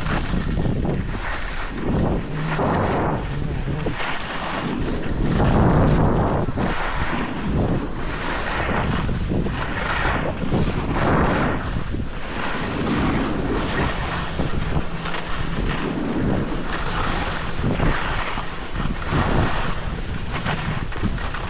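Wind buffeting the microphone while riding fast down a snow run, with the hiss and scrape of snow sliding underneath, swelling and easing every second or two.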